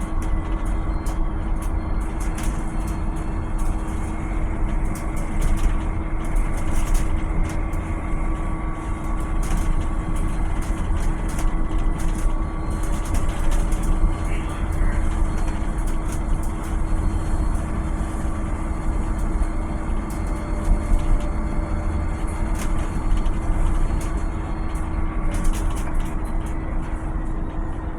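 A Volvo BZL two-motor electric bus running: a steady electric whine over a low rumble, with scattered clicks and rattles.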